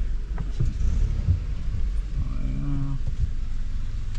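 Low rumble of engine and road noise heard from inside a moving vehicle, with a few knocks as it goes over bumps.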